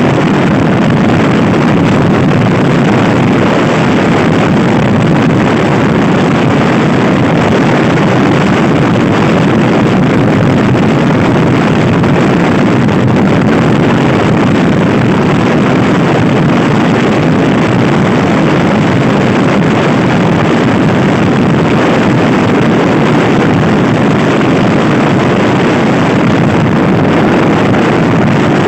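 Loud, steady wind rushing over the microphone while riding a Honda Scoopy-i scooter at speed, drowning out everything else.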